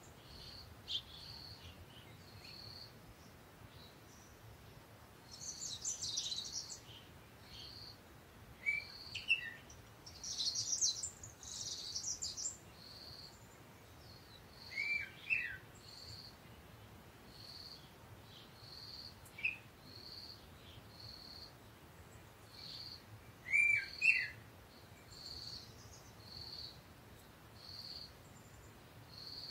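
Birds chirping: a short high chirp repeats about once a second, with a few louder falling calls and two spells of busier chattering, about six and eleven seconds in.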